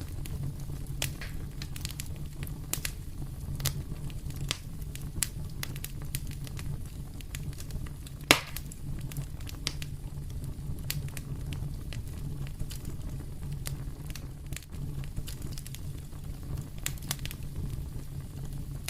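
Fireplace fire crackling, with irregular sharp pops and one much louder pop about eight seconds in, over a steady low rumble.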